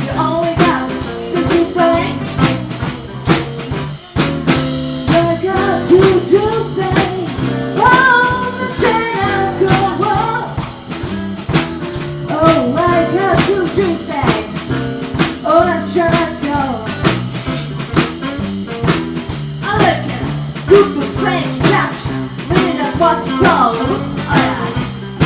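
A small band playing live: drum kit and bass under a bending lead melody line, in a bluesy groove.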